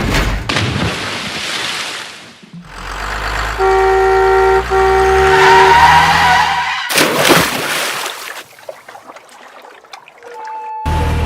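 A vehicle horn sounds in two back-to-back blasts of about a second each over a low engine rumble that rises in pitch. Loud noisy rushes come before and after it.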